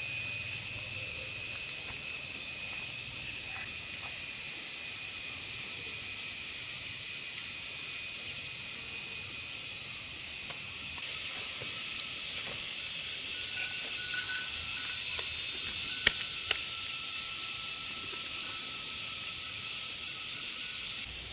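A steady chorus of insects shrilling on several constant high pitches, with two sharp clicks about two-thirds of the way in.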